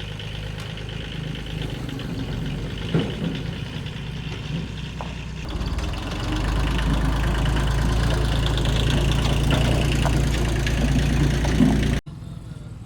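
Old car engine running steadily, getting louder about halfway through, with a sharp knock about three seconds in. It cuts off abruptly shortly before the end, leaving a quieter background.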